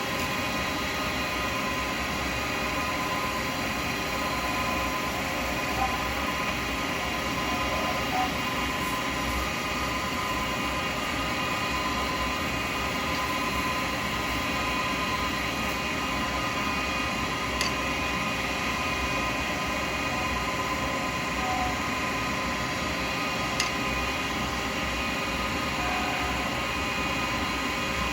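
Small lathe running steadily with a carbide chisel cutting an acrylic pen blank: an even machine whine made of several steady tones over a hiss, with a few faint ticks.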